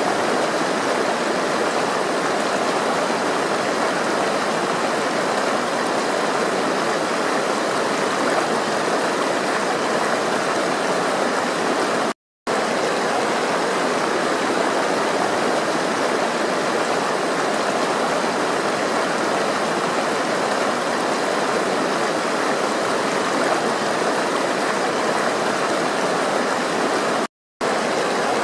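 Flowing water rushing steadily, cut by two brief moments of complete silence, about twelve seconds in and again near the end.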